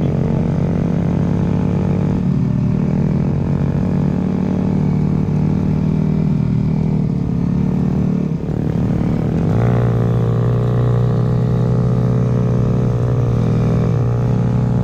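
Dirt bike engine running steadily. About two-thirds of the way in it revs up and then holds a higher, steady pitch.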